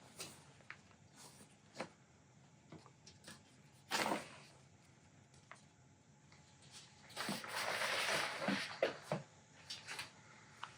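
Handling noises from a fabric softbox being laced onto a 4x4 frame: light clicks and taps, a short rustle of cloth about four seconds in, and a longer rustle of cloth and string being pulled from about seven to eight and a half seconds in.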